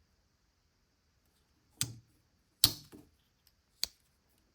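Slip-joint pocket knife blade snapping, four short sharp clicks in a little under two seconds, the second the loudest.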